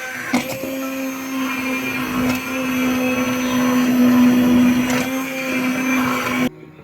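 Small electric kitchen appliance motor running steadily at high speed, then switched off abruptly near the end.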